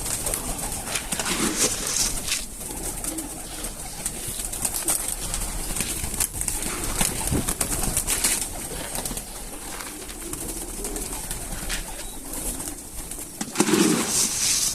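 Homing pigeons cooing in their loft, several low coos spread through, the loudest near the end, over scattered clicks and rustling from the flock.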